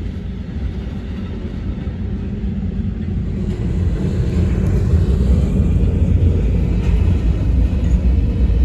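Freight train cars rolling past with a steady low rumble of wheels on rail. The sound grows louder about halfway through as an Amtrak train approaches on the adjacent track.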